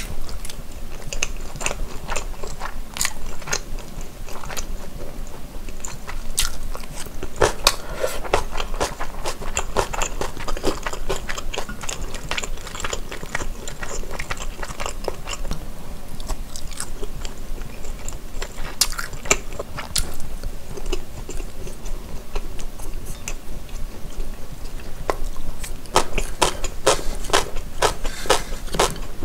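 Close-miked chewing of sundae (Korean blood sausage): steady wet mouth sounds full of small sharp clicks, with a quicker run of clicks near the end.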